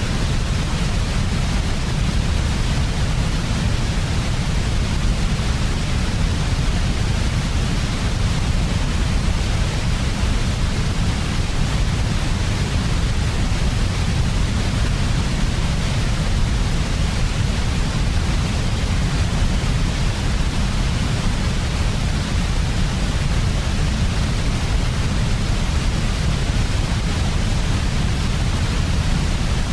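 Steady, unchanging electronic noise of the white/pink kind, with a heavier low band under a constant hiss, played continuously as a sleep aid for babies.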